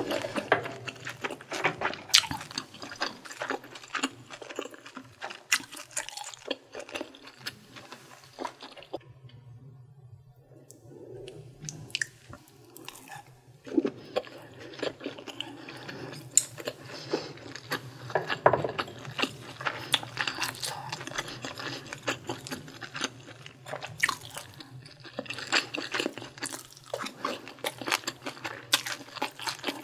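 A person chewing food close to the microphone, with wet clicks and smacks of the mouth. There is a quieter pause from about nine to thirteen seconds in.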